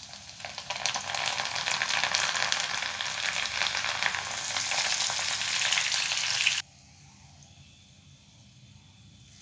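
Moong dal deep-frying in hot oil inside a mesh strainer: dense sizzling and crackling that cuts off suddenly about two-thirds of the way through.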